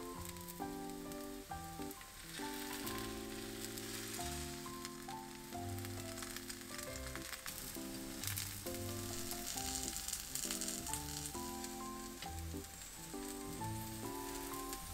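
Food frying in an oiled pan: a steady sizzle with scattered small crackles, under gentle background music of simple sustained chords.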